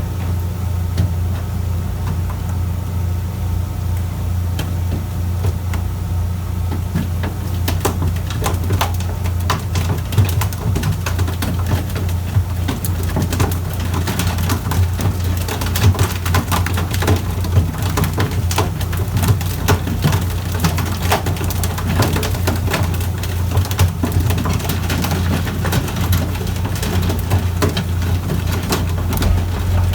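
Fishing boat's engine droning steadily. From about eight seconds in, irregular spattering and splashing of water joins it.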